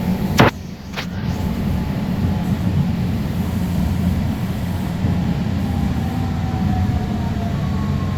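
Alstom Citadis Spirit light-rail train running, heard from inside the car: a steady low rumble, with two sharp clicks about half a second and one second in. A faint whine falls slowly in pitch in the second half as the train begins slowing for the next station.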